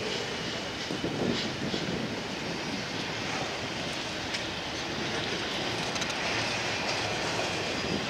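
Double-stack container well cars of a freight train rolling past: a steady rumble of steel wheels on rail with scattered clicks from the wheels passing over the track.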